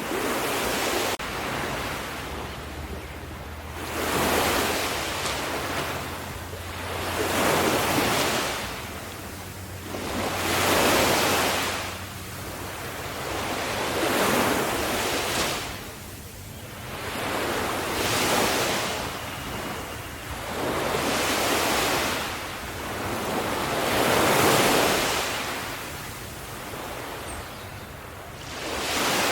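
Ocean surf: waves breaking and washing in one after another, each one swelling and fading, about every three to four seconds.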